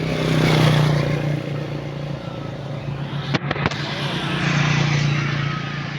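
A motor vehicle engine running, getting louder twice, about half a second in and again near the fifth second, with a couple of sharp clicks or knocks about three and a half seconds in.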